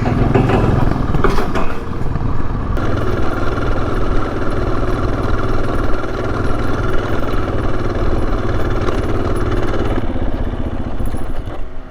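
Motorcycle engine running steadily at low revs, getting quieter about ten seconds in.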